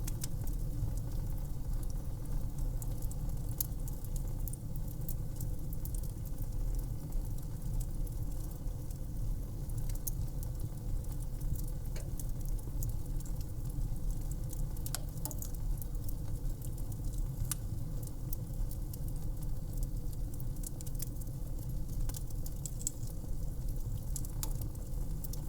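Fire in a fireplace crackling: scattered sharp pops and snaps over a steady low rumble.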